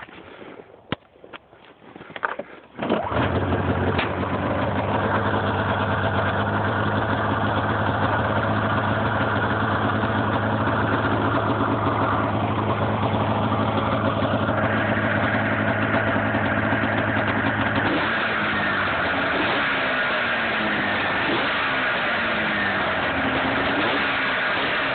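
2007 Arctic Cat M6 snowmobile's two-stroke twin, running on its stock exhaust. It starts after a few clicks, about three seconds in, then idles steadily. In the last third the pitch rises and falls a little.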